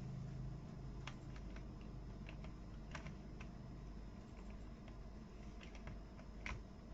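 Faint, irregular small clicks and taps of plastic toy building bricks being handled and snapped together, a few to a second with pauses. A low hum fades out in the first second.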